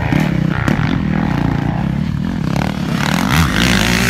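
Dirt bike engine running, its pitch rising and falling as the throttle is worked.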